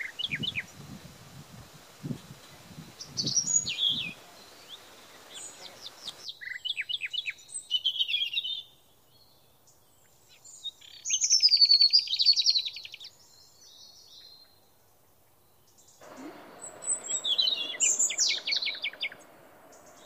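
Songbirds calling: bursts of short high chirps and quick trills, including a rapid buzzy trill about midway. Faint low knocks sound in the first few seconds.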